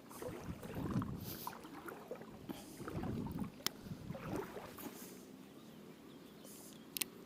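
River water sloshing and swishing around the legs of an angler wading waist-deep on a riffle, in uneven surges, with two sharp clicks, one near the middle and one near the end.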